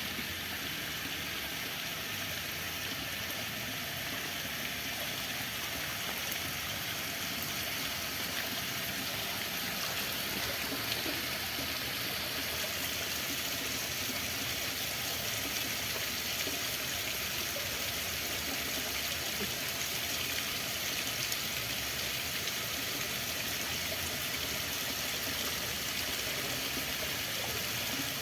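Running water: a steady, even rush with a trickling texture.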